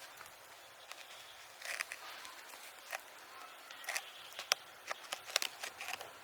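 Irregular light knocks and scrapes from manual work, with about half a dozen sharp clicks spread through the middle and later part.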